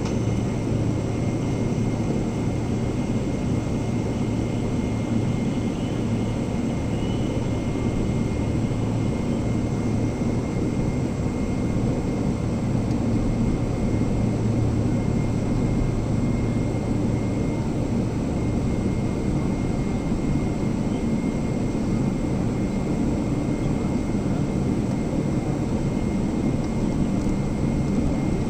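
Steady cabin noise inside a Boeing 777-300ER just after landing, from its two GE90-115B jet engines and the airflow. A low hum fades out about two-thirds of the way through, and a faint thin whine holds steady above the rumble.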